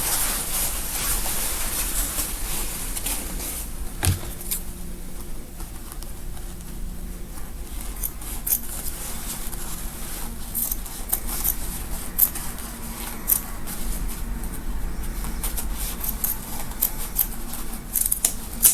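Scattered small clicks and rustles of a gown's fabric being handled and cut apart, with a single dull knock about four seconds in.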